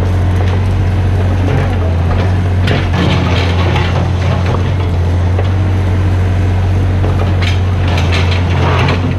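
Mini excavator's diesel engine running steadily under work, with a few short clattering sounds from the machine at work, about three seconds in and again near the end.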